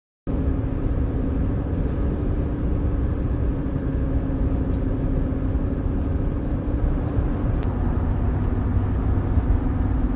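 Truck driving on the road: a steady low rumble of road and engine noise with a constant drone. It starts abruptly and cuts off abruptly near the end.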